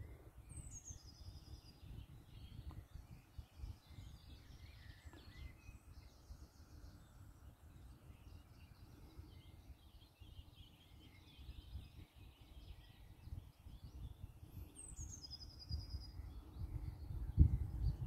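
Songbirds singing: one bird twice gives a short, high song that falls in pitch, about a second in and again near fifteen seconds, with faint chirps from other birds between. A low rumble runs underneath and grows louder near the end.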